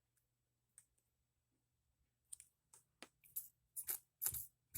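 Small pump oil can clicking as oil is squirted onto the steam donkey's main bearings. A few faint clicks at first, then quicker and louder ones over the last two seconds.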